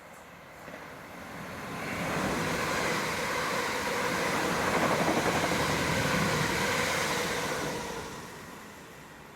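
A train passing, its rumble and rail noise building over a couple of seconds to a peak about five seconds in, then fading away.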